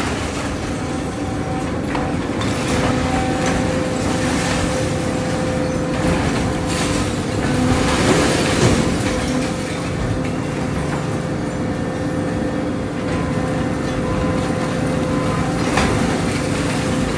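Excavator's diesel engine running steadily under load, with the crunch and clatter of house debris breaking and falling several times, loudest about halfway through.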